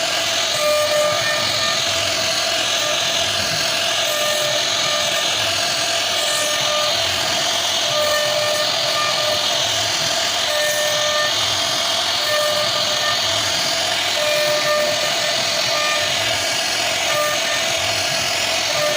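CNC wood router carving wood: a steady, loud hiss from the spindle and cutter, with a pitched whine that comes and goes every second or two as the machine moves.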